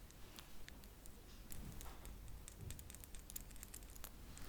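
Faint, irregular light clicks and taps.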